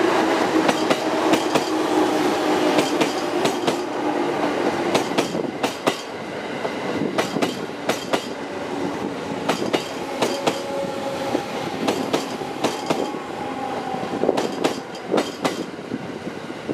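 JR East 209 series electric train running through a station without stopping. Its wheels clatter over the rail joints in a quick run of clicks over a steady running hum, which fades gradually as the train draws away.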